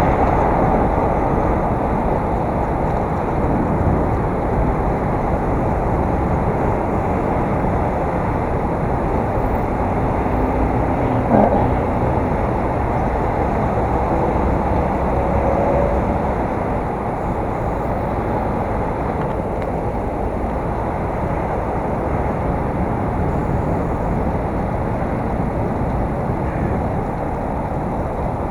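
Steady muffled wind and road rumble on an action camera's microphone while riding a bicycle, with one brief click about 11 seconds in.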